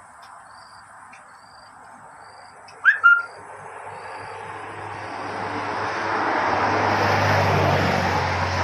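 A vehicle passing on the road, its noise swelling over several seconds to the loudest point near the end before fading. Before it, regular high chirps, and a short loud call with a rising pitch about three seconds in.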